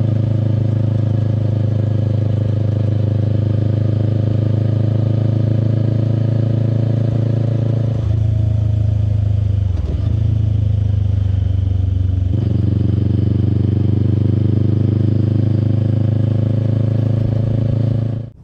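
Kawasaki Eliminator SE's 398 cc parallel-twin running through a BEAMS full aftermarket exhaust while riding at a steady pace. About eight seconds in the engine note drops lower, dips briefly around ten seconds, then steps back up about twelve seconds in and holds steady before cutting off suddenly near the end.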